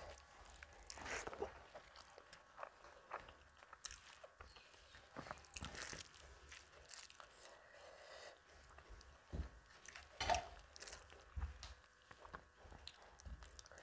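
Faint, close-miked eating sounds: chewing and lip smacks of a mouthful of rice and fish curry, with irregular soft clicks and squishes as fingers mix rice and curry on a plastic plate.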